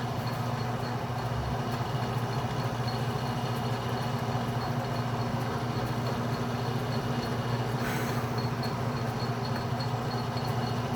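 Atlas metal lathe running with a steady motor hum.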